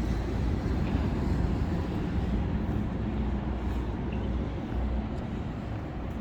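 Steady city street noise with a low rumble of road traffic passing.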